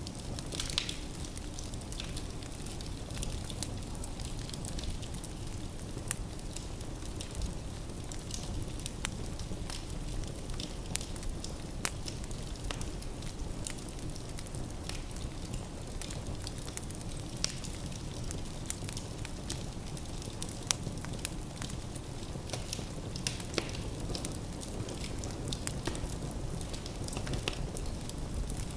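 Firewood burning in a fireplace: a steady low rumble of flames with frequent irregular crackles and pops from the logs.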